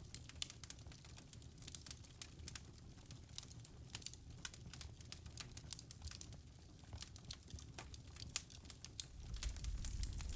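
Wood fire in a fireplace crackling faintly, with scattered sharp snaps and pops. Near the end a low rumble of the flames swells and the fire grows louder.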